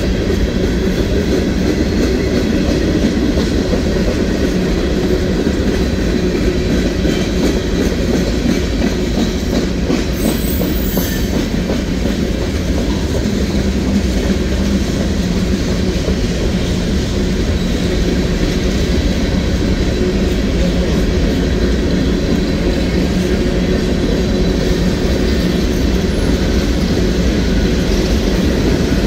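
Freight cars of a manifest train rolling steadily past: a continuous loud rumble of steel wheels on the rails.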